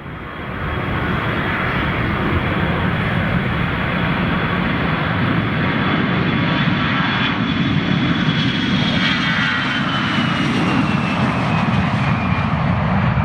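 Airliner engines running loud and steady, with a high whine that slowly falls in pitch over the second half of the sound.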